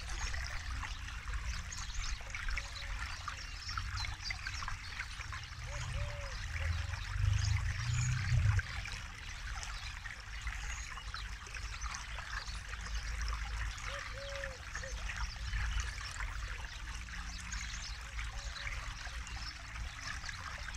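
River water flowing and trickling, a steady burble with a low rumble that swells about seven to eight seconds in. A few short low calls sound over it.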